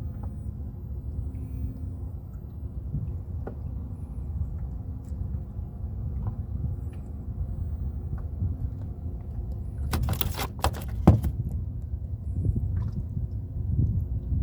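Boat motor running steadily, with a short burst of clattering about ten seconds in.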